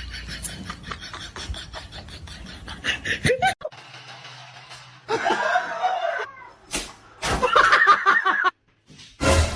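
A person laughing in two bouts in the second half, with a few sharp knocks between them; faint rapid clicking before that.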